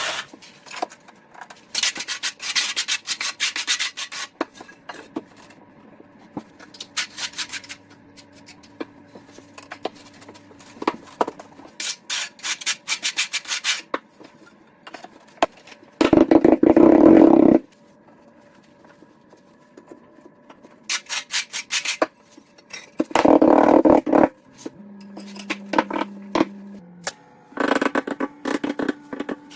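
Rapid scraping and rubbing strokes from tile work, coming in bursts of one to two seconds several times over. Two louder, deeper rushes of noise come near the middle and about two-thirds of the way through.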